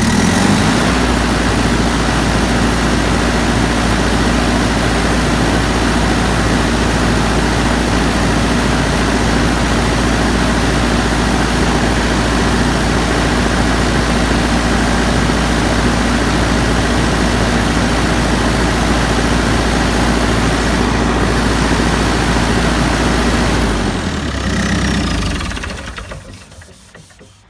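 JCB Dieselmax 448 four-cylinder diesel engine of an excavator running steadily during an injector fuel-return test, then shut off about 24 seconds in and running down to a stop within a couple of seconds.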